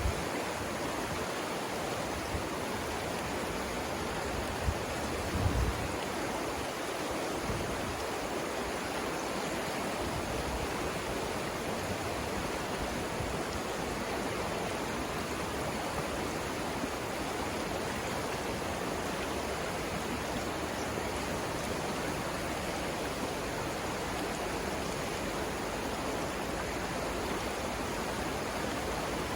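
The Savannah River rushing over its rapids: a steady, even roar of flowing water. A few brief low thumps come in the first six seconds.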